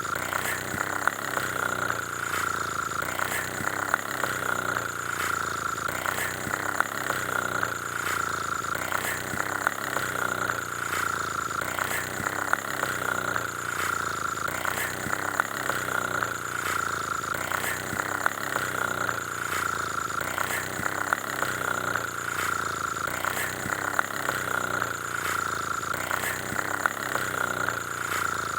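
Steady engine-like running sound: a whine that swells about once a second, with light ticks throughout.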